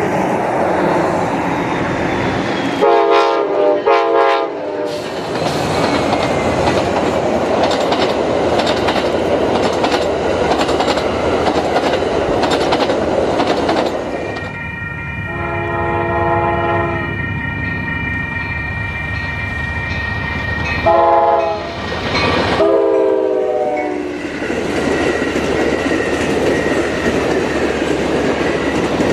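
Diesel passenger trains passing, a steady rumble of engines and wheels on rail throughout. The horn sounds several times: two short blasts a few seconds in, one long blast midway, and two more blasts near the end.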